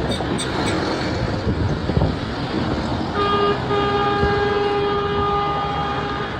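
A vehicle horn sounding over a loud wash of passing traffic: a short toot about three seconds in, then a long held blast at one steady pitch.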